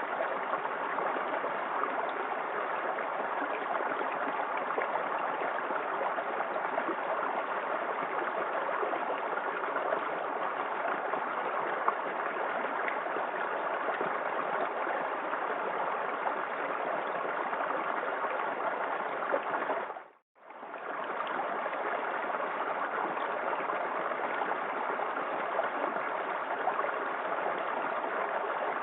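Small waterfall in a forest creek, water running and splashing steadily. About two-thirds of the way through, the sound dips briefly to silence and comes straight back.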